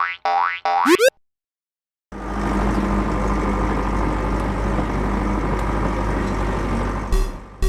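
Cartoon train-passing sound effect: a steady noisy running sound that starts abruptly about two seconds in and lasts about five seconds. It follows three quick rising electronic sweep tones at the start, and a pulsing music beat comes in near the end.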